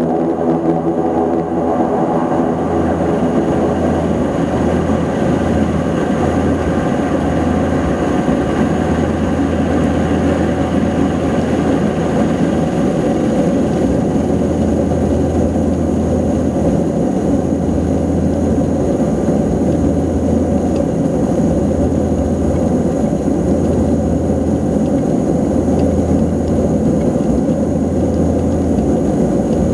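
Antonov An-24's two Ivchenko AI-24 turboprop engines running, a loud steady propeller drone with a low hum that slowly swells and fades.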